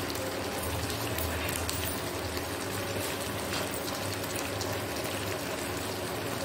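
Onion, green capsicum and sauce frying in a hot nonstick wok, sizzling with a steady hiss, and a low pulsing hum underneath.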